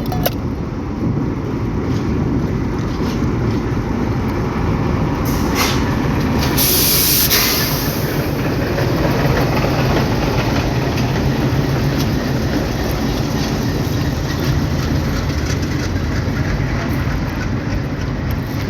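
Train moving on the tracks, a steady rumble with faint clicks, and a short, loud hiss about seven seconds in.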